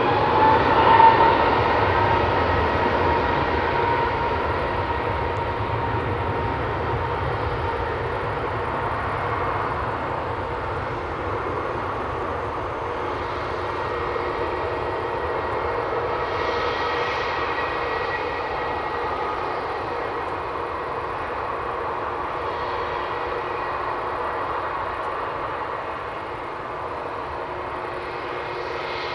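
Jet airliner engines passing close by, loudest about a second in, then slowly fading as the aircraft moves away.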